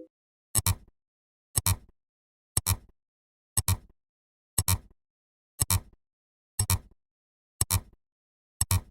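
A sharp double click repeating once a second, nine times, like a clock ticking.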